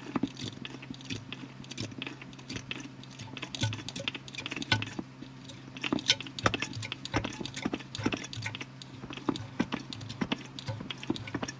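Hand-operated bottle-top gear oil pump being stroked repeatedly, pushing gear oil from a quart bottle through a hose into a truck's front differential. It makes irregular clicking and squishing strokes, about two a second, over a steady low hum.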